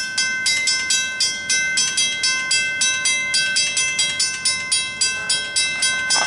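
Railroad crossing bell ringing on and on, about four strikes a second, each strike ringing on. The crossing is activated with its gates down but no train coming.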